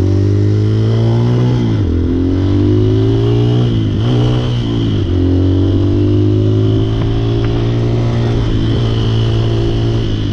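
250cc motorcycle engine accelerating through the gears: its pitch climbs, then drops sharply at each upshift, about four shifts in all.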